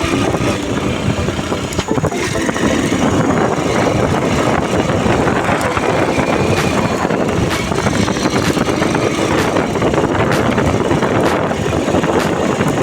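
Honda Bros 150 motorcycle's single-cylinder engine running steadily while riding, mixed with a rush of wind over the microphone.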